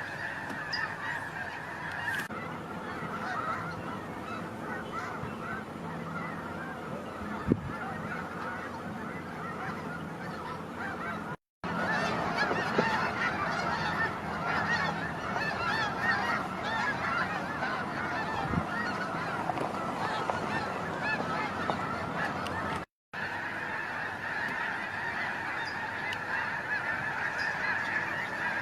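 A large flock of geese honking in a dense, continuous chorus of many overlapping calls. The sound cuts out completely for a moment twice, about a third and about four-fifths of the way through.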